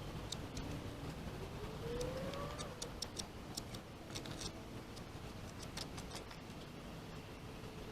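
Faint, irregular small clicks and ticks of a hand tool working fresh roof sealant, spreading it over the seam, over a low steady background. A brief rising whine sounds about two seconds in.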